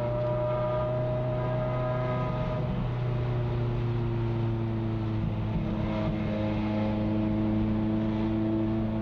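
Ferrari F355's 3.5-litre V8 engine heard from inside the cabin while cruising at low, fairly constant revs, giving a steady drone whose pitch shifts slightly a few times.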